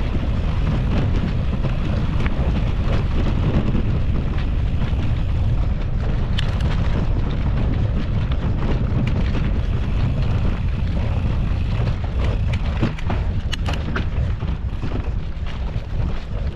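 Steady low rumble of wind on the microphone and tyre noise while a mountain bike rides singletrack. Scattered sharp clicks and rattles come in over the last few seconds.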